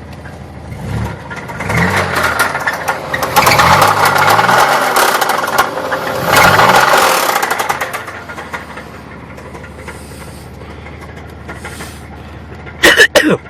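1994 Buick Park Avenue's 3.8-litre V6 revved up twice and falling back to idle, with the knock the owner takes for a rod knock. A short loud noise comes near the end.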